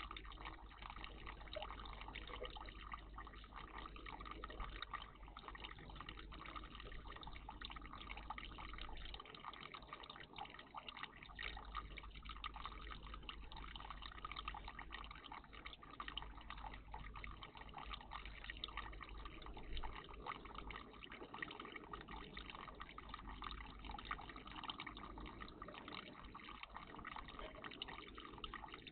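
Water trickling and dripping steadily in a bird bath, a faint continuous splashing with many small drops.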